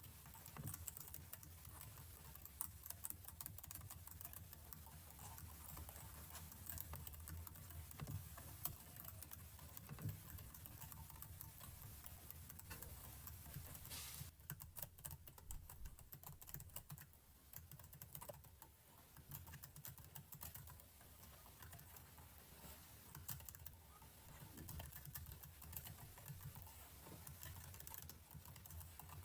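Faint, irregular clicking of computer keyboard keys being pressed, with a quick rapid flurry of keystrokes about halfway through.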